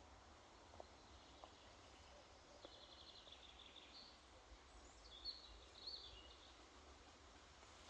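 Quiet forest ambience: a small bird sings faint runs of rapid high chirps twice, about three seconds in and again around five to six seconds, over a low steady hiss.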